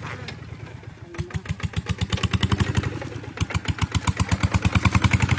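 Kubota ZT150 tractor's single-cylinder diesel engine running with a rapid, even knock. It is low for the first second, then its firing beats pick up and grow steadily louder as the engine comes back under throttle.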